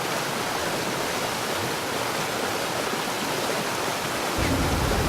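Steady, even rushing noise, like falling or running water, with a low rumble joining about four seconds in.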